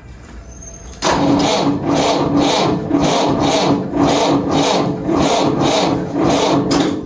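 Starter motor cranking the McCormick International B-375 tractor's cold diesel engine, beginning about a second in with a steady rasp and even compression pulses, about three a second, then stopping after about six seconds. The engine does not fire: the cold diesel needs its heater before it will start.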